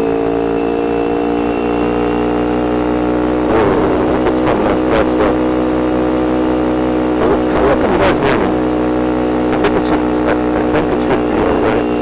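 Motorcycle engine running at a steady speed while riding, its note easing slightly lower over the first few seconds. Sharp crackles come over it from about three and a half seconds in.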